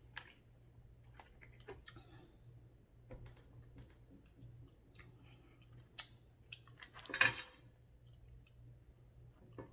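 Close-miked chewing of chicken pot pie with small scattered mouth and fork clicks over a steady low hum, and one brief louder scraping rustle about seven seconds in.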